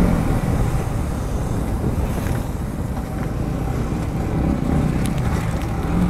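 Motorcycle engine running at low revs with the throttle closed as the bike slows to a stop, a steady uneven low rumble.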